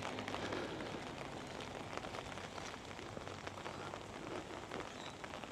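Monsoon rain falling steadily, with the patter of individual drops close by.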